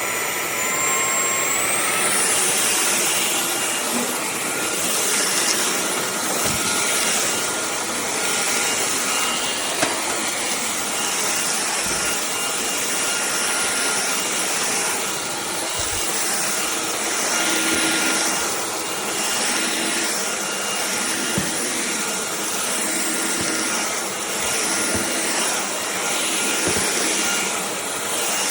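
Cordless stick vacuum running: a motor whine that steps up in pitch about two seconds in, then holds steady, with the rush of suction swelling and fading every couple of seconds and a few light knocks.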